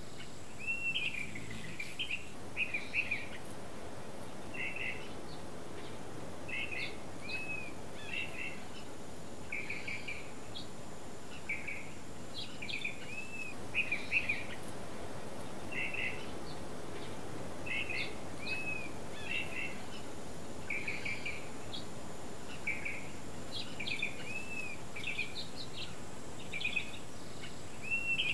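A songbird calling over and over, short chirps and arched notes coming every second or so, over a steady low outdoor background noise.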